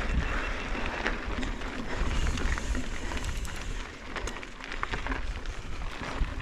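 Mountain bike being ridden over a rough dirt trail: a steady low rumble of wind and tyres, with scattered clicks and rattles from the bike.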